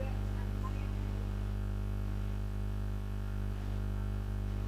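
Steady electrical mains hum with a stack of buzzing harmonics, running unchanged.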